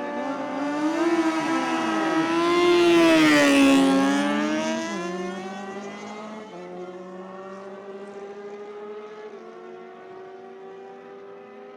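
Superbike at full throttle passing close by on a drag run. It grows loudest about three and a half seconds in, its engine note dropping in pitch as it goes past, then fading away down the strip.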